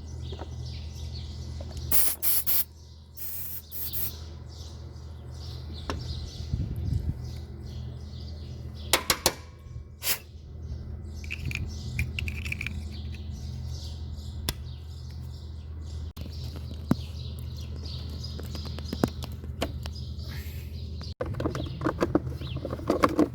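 Aerosol contact cleaner sprayed in short hissing bursts onto a slightly corroded relay's contacts, about two seconds in and again around nine to ten seconds, over a steady low hum.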